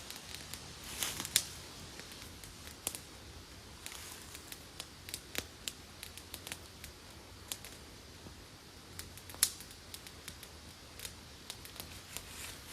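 Campfire crackling: irregular sharp pops and snaps over a faint hiss.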